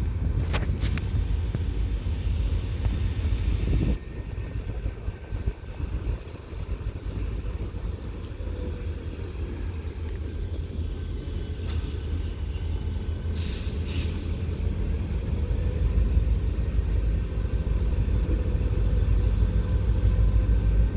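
Low rumble of railyard equipment, typical of diesel locomotives running, easing off about four seconds in and building again toward the end. It is broken by a couple of brief high-pitched sounds, one near the start and one a little past the middle.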